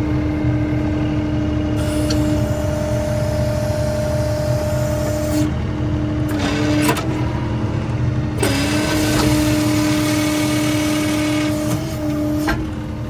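Skid steer loader running hard at work: a steady engine and hydraulic whine over a low rumble. Twice the sound thickens into a longer stretch of louder rushing noise as the machine works under load.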